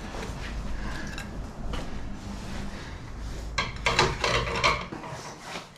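Metal clinking and rubbing as hydraulic quick-connect couplers and hoses are handled, with a cluster of sharper clatter near the end, over a steady low hum that stops shortly before the end.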